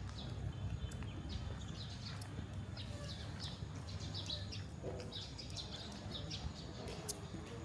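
Small birds chirping over and over in quick, high calls, over a steady low rumble.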